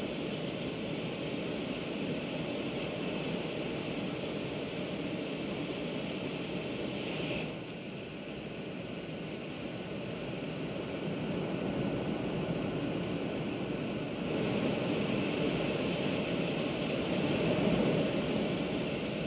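500 series Shinkansen running at speed, heard from inside the passenger cabin as a steady rushing rumble. It drops about seven seconds in as the train leaves a tunnel, then steps up louder around fourteen seconds in as it enters another.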